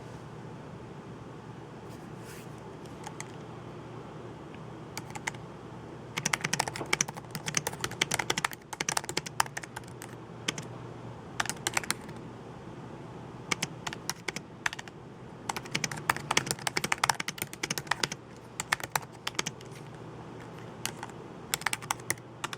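Typing on a computer keyboard: a few separate clicks in the first few seconds, then fast runs of keystrokes in three bursts, over a steady low hum.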